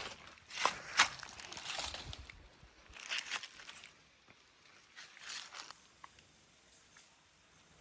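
Two sharp knocks about a second in, followed by several short bursts of rustling or scraping as something is handled.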